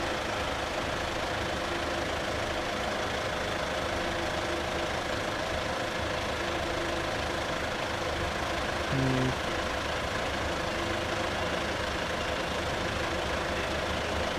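Steady vehicle and engine noise of traffic, with a short, low horn-like tone about nine seconds in.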